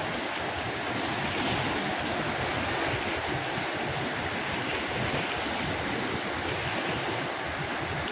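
Water rushing steadily through the open spillway gates of the Nathsagar dam.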